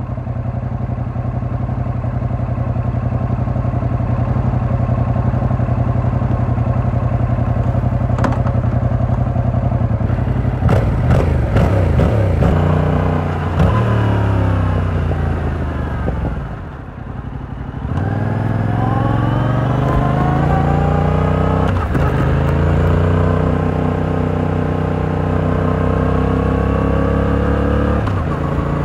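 Yamaha R7's stock-exhaust 689 cc parallel-twin engine running steadily for about ten seconds, then revving up in a series of rising pulls with short breaks between them as the bike accelerates through the gears. Midway it briefly drops off, then picks up and pulls again.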